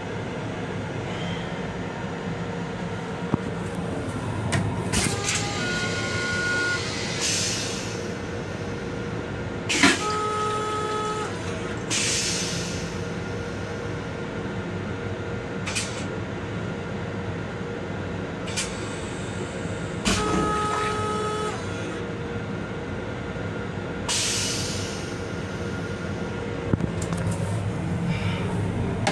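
Steady rumble of a Long Island Rail Road M7 electric railcar running, heard inside its restroom. A few short hisses and some brief ringing tones come and go over it, one set led in by a sharp knock.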